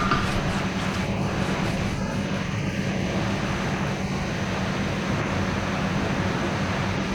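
A steady engine drone, a low hum under a constant rushing noise, holding the same level throughout.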